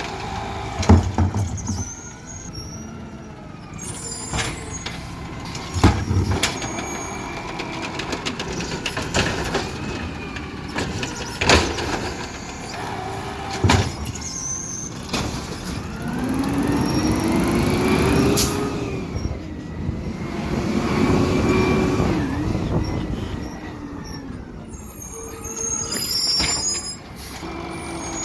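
Garbage truck at work: several sharp bangs in the first half, then the engine and hydraulics swelling up and down twice.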